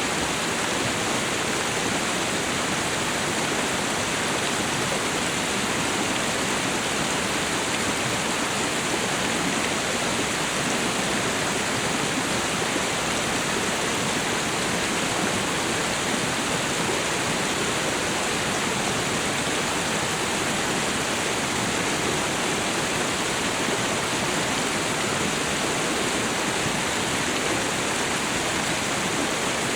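Waterfall and river water rushing steadily, an even, unbroken noise.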